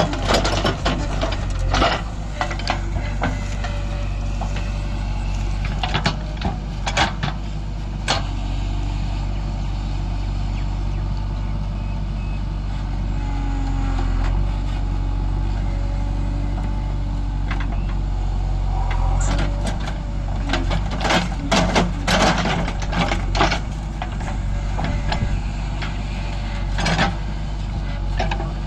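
Heavy diesel machinery engine running steadily, with sharp knocks and clanks coming in bursts near the start, after about six seconds, through a stretch past the middle, and once more near the end.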